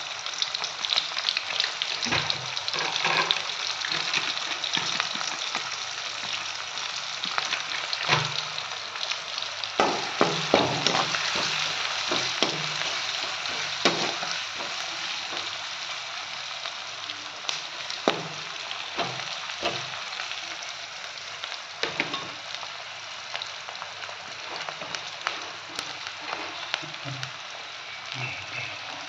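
Sliced onions sizzling steadily in hot oil in a metal wok, with a spatula knocking and scraping against the pan now and then as they are stirred.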